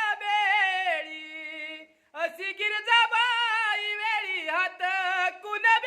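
A single voice singing a Marathi devotional song (bhajan) to Mahadev, with no instruments heard, holding long notes with a strong wavering vibrato; the singing breaks off briefly about two seconds in, then resumes.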